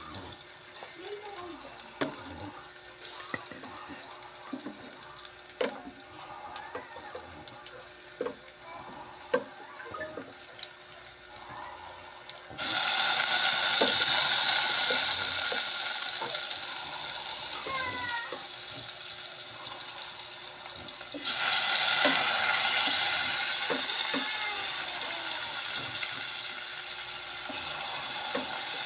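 Onion and garlic frying gently in oil with scattered small pops. Then chunks of meat go into the hot pot and set off a sudden loud sizzle that slowly dies down. A second loud burst of sizzling follows when more meat goes in, and it too fades.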